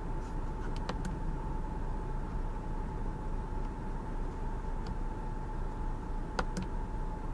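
SEAT Leon Cupra's 2.0-litre turbocharged four-cylinder idling steadily at standstill, heard from inside the cabin. A few light clicks, a cluster about a second in and a pair near the end, come from the steering-wheel buttons paging through the dashboard menus.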